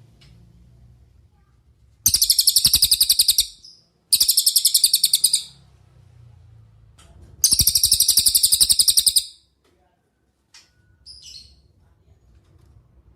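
Cililin songbird singing three loud, rapid trills of high repeated notes, each lasting well over a second, followed by a few faint short notes near the end.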